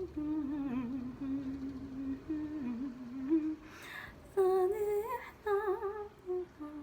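A woman humming a low, wavering melody softly, then, after a short breath about four seconds in, singing fuller phrases with vibrato.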